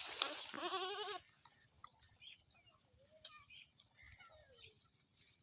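A goat bleating once, loud and wavering, for under a second near the start, followed by a few faint, short calls.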